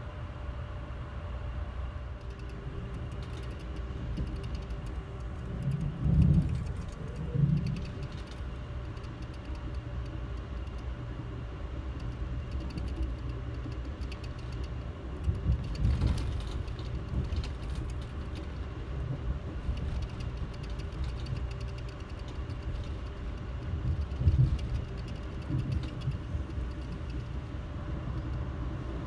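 Amtrak Maple Leaf passenger train heard from inside a coach as it rolls away from a station: a steady low rumble of the train running on the rails. Short, heavier thumps and jolts come about six, seven and a half, sixteen and twenty-four seconds in.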